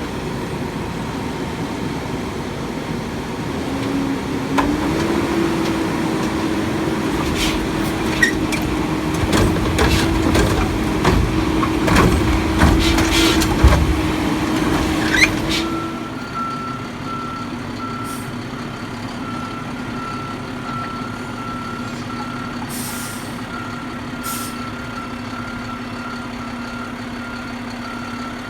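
Garbage truck working: the engine runs at raised revs with repeated metal clanks and bangs of the loading equipment. About halfway through, the engine drops back to idle, and a backup alarm beeps steadily over it.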